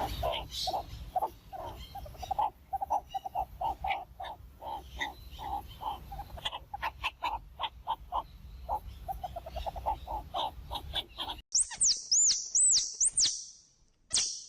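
Domestic fowl calling: a fast, continuous run of short, low, nasal-sounding calls for most of the stretch. After an abrupt change near the end come four or five high, arching peeps.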